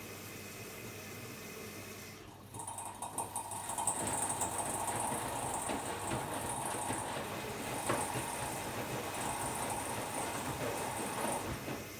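Hotpoint-Ariston AQD972F washer-dryer running its cycle, with a louder rushing, hissing flow of water that starts suddenly about two and a half seconds in and stops just before the end.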